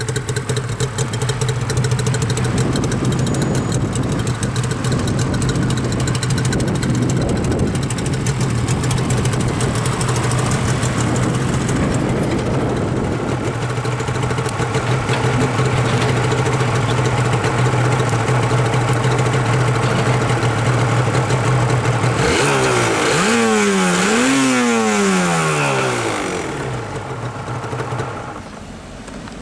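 Yamaha R1-Z's two-stroke parallel-twin engine on its stock exhaust, idling steadily, then revved twice near the end, the pitch climbing and falling each time before settling back down.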